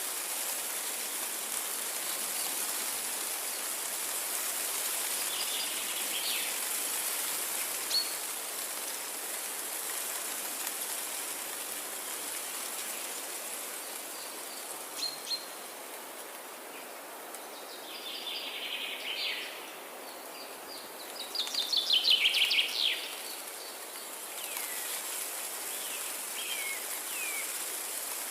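Forest ambience: a steady hiss of rain or running water, with scattered bird chirps and a louder, rapid series of bird notes about three-quarters of the way through, followed by a few short falling chirps near the end.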